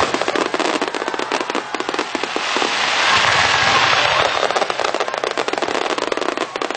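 Fireworks crackling: a dense, rapid stream of many small pops and crackles that swells about halfway through.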